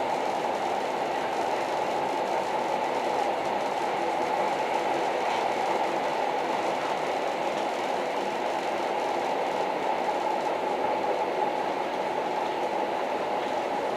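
Old train running steadily: a continuous, even rumble with no distinct clacks or squeals.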